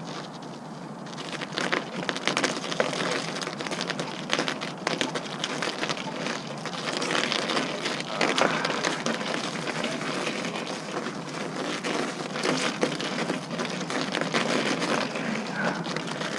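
Snow and slush crunching and crackling in a dense run of irregular clicks as someone moves along a snow-covered path, starting about a second in.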